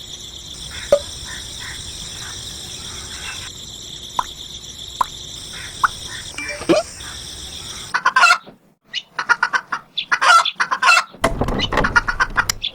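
Chickens clucking in quick, choppy calls during the last few seconds. Before that, a steady high-pitched whine runs for about eight seconds, with a few sharp clicks.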